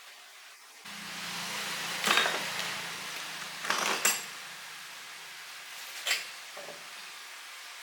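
A steady hiss with a low hum starts about a second in, and metal clanks and rattles over it three times, the loudest just after two seconds and around four seconds.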